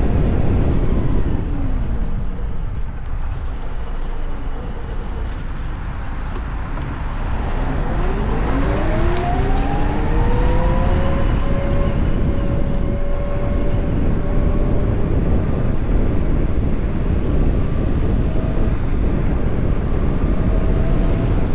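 VMoto Stash electric motorcycle's motor whine, falling in pitch as the bike slows. Near the middle it climbs again as the bike pulls away, then holds steady, all over heavy wind and road rumble.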